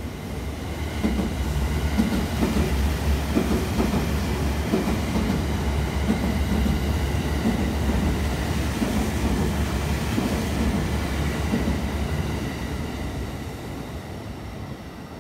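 JR Central 315 series electric train, two four-car sets coupled, running through the station at speed without stopping. It makes a rumble with a rhythmic clickety-clack of wheels over rail joints, swelling as it arrives and fading over the last few seconds as it leaves.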